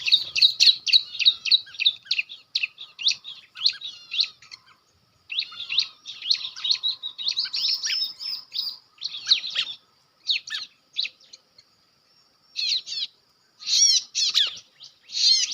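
Ciblek batik (prinia) calls: rapid, high chirps in quick runs, with brief pauses between them and one longer pause near the end.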